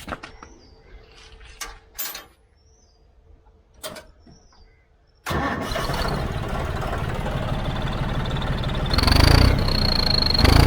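A few sharp clicks, then about five seconds in the John Deere 5310 tractor's diesel engine sound comes in abruptly and runs steadily. A high, steady whistle from the fitted turbo whistle rides above it and gets stronger as the engine revs up near the end.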